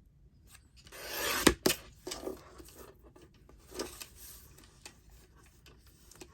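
Paper being handled and trimmed on a work surface: a rising rub of paper sliding, two sharp clicks about a second and a half in, then softer rustles and taps.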